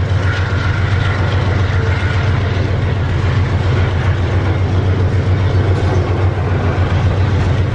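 Double-stack container train's loaded well cars rolling past close by, a steady, loud rumble of wheels on the rails.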